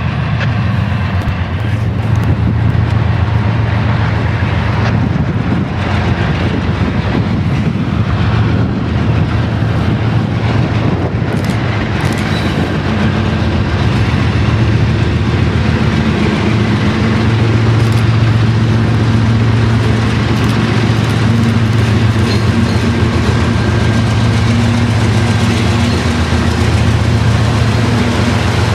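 Canadian Pacific freight train rolling past: a steady rumble and rattle of wheels on rail with a low, even hum underneath.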